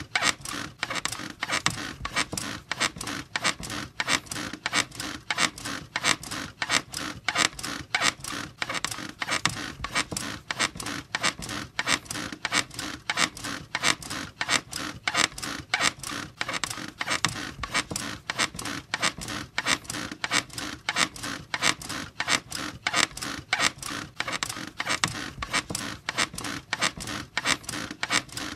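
Bed squeaking in a fast, steady rhythm, about three squeaks a second, on and on without a break.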